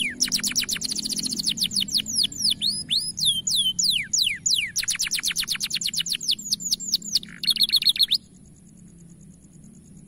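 Domestic canary singing: a fast series of falling whistles and rapid trills, ending in a short buzzy roll. The song stops abruptly about eight seconds in, leaving faint hiss.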